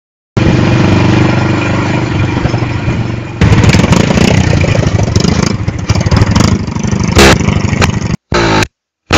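Motorcycle engine running and revving loudly, its exhaust popping and crackling ('making popcorn'). Near the end the sound stops and starts abruptly in short bursts.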